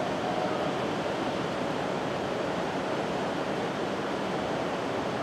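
Steady rushing noise of a departing Keihan 7000 series electric train rolling away on the track, with a faint steady tone that fades out in the first second.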